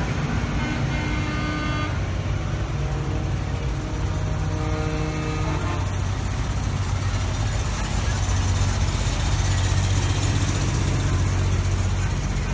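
Parade trucks driving past with a steady engine rumble. A few long horn toots sound in the first half, then a deeper truck engine grows louder as it passes.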